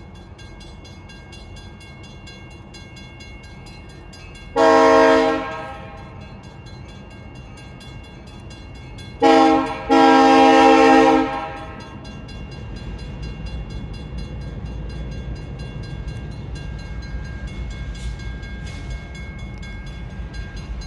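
Norfolk Southern diesel locomotive air horn sounding at a grade crossing: one long blast, then a short and a long blast, with a multi-note chord. The low rumble of the train's engine and freight cars rolling past then builds and holds, while the crossing bell rings steadily underneath.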